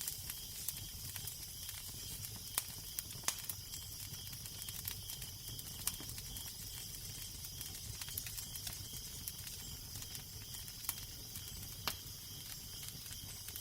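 Crackling fire: irregular sharp pops and snaps over a steady hiss, the loudest pops a little after two, three, six and twelve seconds in. A steady low wind rumble runs underneath.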